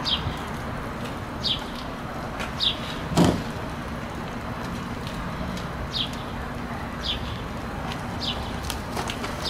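Outdoor background with a steady hiss, a bird's short high chirps falling in pitch repeating every second or so, and a single thump about three seconds in, the loudest sound.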